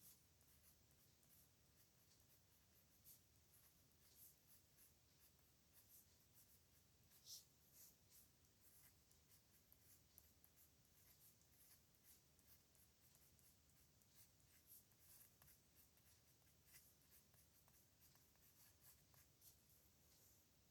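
A pen scratching faintly across paper in many short strokes as characters are written out by hand, with one louder stroke about seven seconds in.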